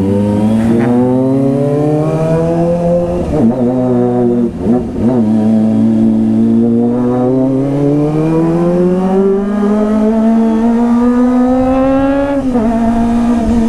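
Kawasaki ZX-25R's 250 cc inline-four engine pulling under load, its pitch climbing through the revs. There are brief gear-change breaks about three and a half and five seconds in, then a long steady climb that falls away sharply near the end.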